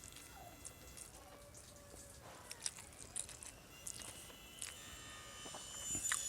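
Scattered soft clicks and smacks of a person chewing and eating milkfish stewed in vinegar, with faint high thin tones in the background that grow louder near the end.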